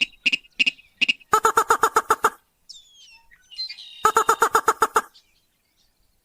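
Slaty-breasted rail (sintar) calling: a few single sharp notes, then two bursts of rapid ticking notes, each about a second long and about ten notes a second. Faint high whistles come between the bursts. This is a recorded call of the kind played as a lure to draw other rails in.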